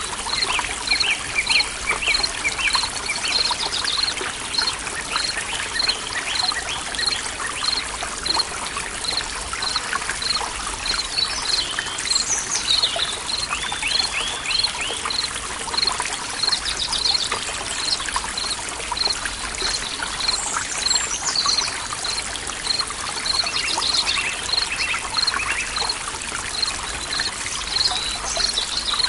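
Forest stream trickling steadily, with birds singing in short phrases and a high pip repeating about twice a second. A low steady tone of binaural beats runs underneath.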